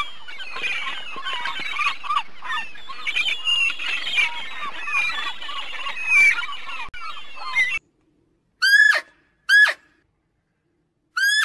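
A flock of birds calling over one another in a dense chatter, which cuts off abruptly. Then come three separate short calls that fall in pitch.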